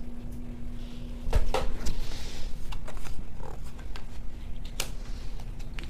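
Tarot cards being handled and laid out: a few soft clicks and rustles scattered through the pause.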